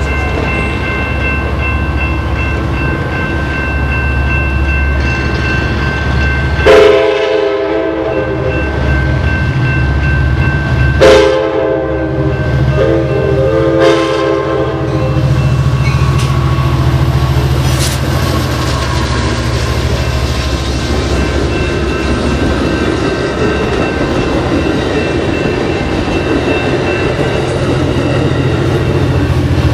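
Amtrak Pacific Surfliner train led by an F59PHI diesel-electric locomotive sounding its horn for the grade crossing: four blasts between about 7 and 15 seconds in, the first two long, over the crossing warning bell. The locomotive's diesel engine runs steadily, and the bilevel cars then rumble and clatter past on the rails.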